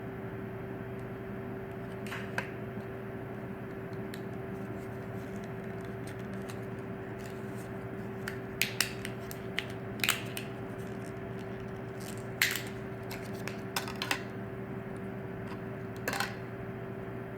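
Hands handling a phone box and its contents: scattered light clicks and taps over a steady background hum, busiest in the middle and near the end.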